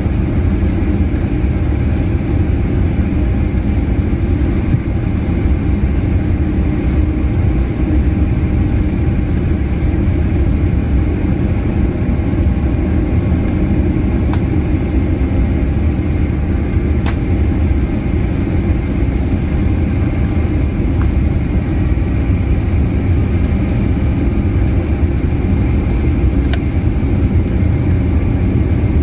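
Steady cabin noise of a Boeing 787-8 airliner: a constant low rumble of engines and airflow with a faint high hum, unchanging throughout.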